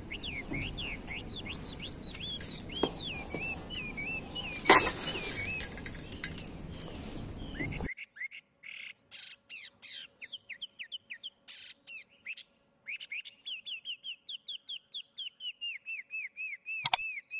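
A small bird chirping in quick, repeated series of short sweeping notes throughout. A little under five seconds in there is one brief, louder rustling burst, and about halfway through the background hiss cuts off suddenly while the chirping carries on.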